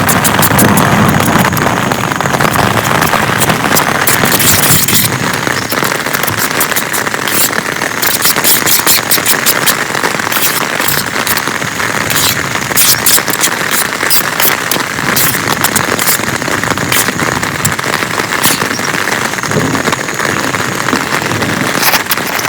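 Heavy rain pouring down steadily, with dense close drop impacts pattering throughout.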